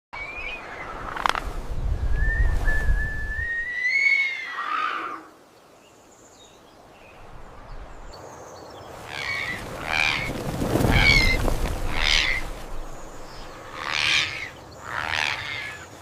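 Bird calls and whistles: a long wavering whistle in the first few seconds, then, after a short lull, a run of short repeated calls, with a low rumble at times underneath.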